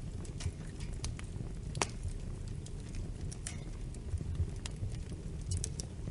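Wood fire burning with a steady low rumble and irregular sharp crackles and pops, one louder pop about two seconds in and a quick cluster near the end.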